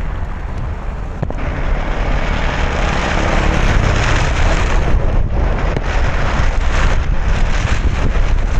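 Road noise from a car driving on a wet road: a low rumble with tyre hiss from the wet pavement, the hiss growing louder after about a second and a half.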